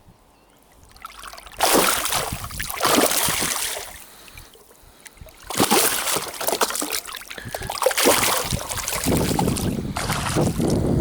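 Water splashing and sloshing around a kayak in three loud bursts of a couple of seconds each, the last one deeper and fuller.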